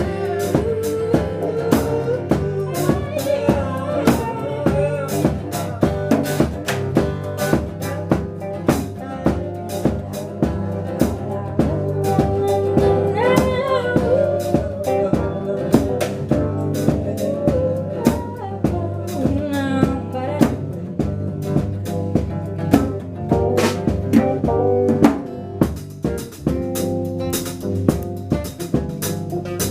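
Live band playing an instrumental passage of a groove song: a drum kit keeps a steady, busy beat of snare and bass drum strokes over a bass line, with a melodic lead line bending in pitch above.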